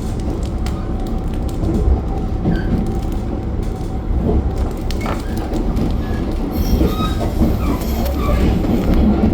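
Limited Express Hokuto diesel train running on the line: a steady rumble of wheels and engine with scattered rail clicks, and short high wheel squeaks from about two-thirds of the way through.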